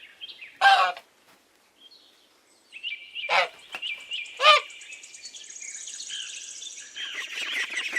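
Domestic goose honking: three short, harsh calls spread over the first few seconds, then faint high-pitched twittering.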